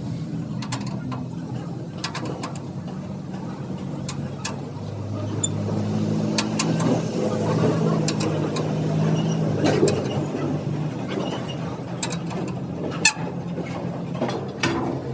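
A motor running steadily with a low hum, with scattered short clicks and taps over it.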